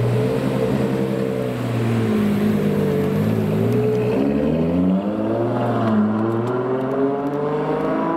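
A Ferrari sports car's engine pulling away under throttle. The note sags, then rises steadily from about four seconds in, drops briefly near five seconds as it changes gear, and climbs again.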